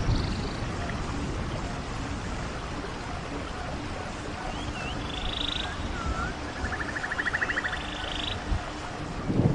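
Rainforest ambience: a steady wash of rain-like noise with a low rumble. Over it come scattered short chirping calls and, about seven seconds in, a rapid pulsed trill, typical of frogs and birds calling.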